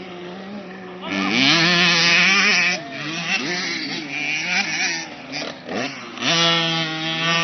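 Motocross bike engines running and revving, several overlapping, with pitch rising and falling; a loud burst of revving about a second in and a steadily held engine note from about six seconds in.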